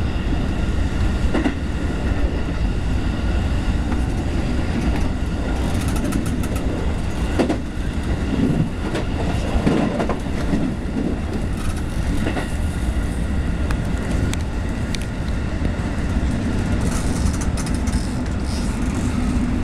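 Running noise of a moving electric commuter train heard from inside the car: a steady low rumble of wheels on rail, with a few sharp clacks as the wheels pass over rail joints.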